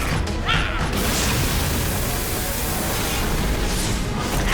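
Cartoon action sound effects: a loud, steady rushing noise with a short rising-and-falling swish about half a second in, over background music.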